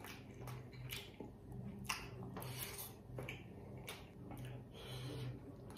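Faint chewing of a mouthful of Maggi instant noodles, with irregular soft wet clicks and smacks of the mouth.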